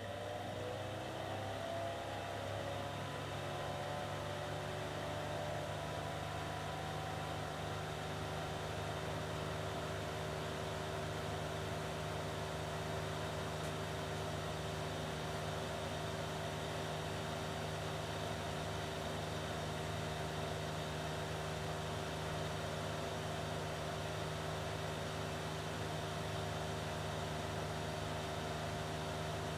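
Lanson bathroom exhaust fan running: its motor comes up to speed in the first few seconds, the hum rising in pitch, then settles into a steady hum and whir.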